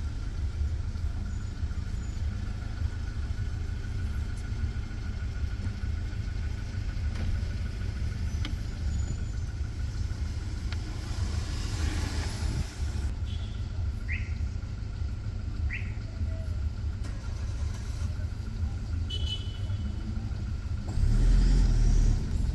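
Road traffic: a steady low vehicle rumble, with a vehicle passing about midway and a louder one passing close near the end. Two short bird chirps come shortly after the middle.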